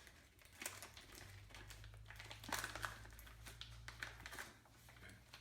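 Packaging crinkling and rustling as it is worked open by hand to get a puck out, with a few scattered clicks, over a low steady hum.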